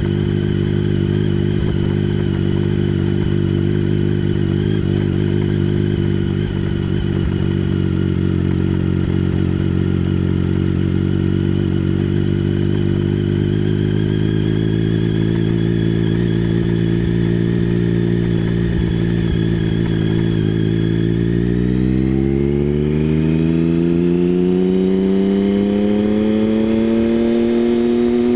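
Triumph Speed Triple 1050's inline three-cylinder engine through a Mivv aftermarket exhaust, running at a steady engine speed for about twenty seconds. Then it rises smoothly in pitch as the bike accelerates.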